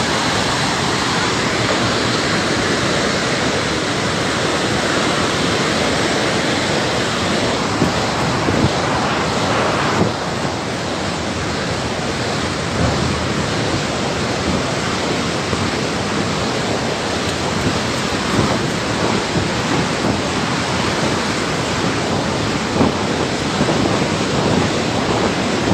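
Flash-flood water rushing steadily as a loud, dense, even noise, which dips slightly and changes tone about ten seconds in.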